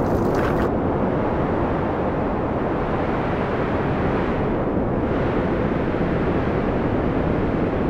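Strong wind of a desert sandstorm blowing across the microphone: a steady, loud, low rushing noise.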